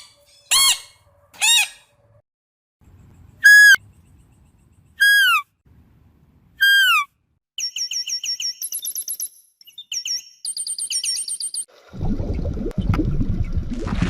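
Bird calls: two short calls, then three longer calls about a second and a half apart, each falling in pitch, then a run of quick high chirps. A rushing noise starts near the end.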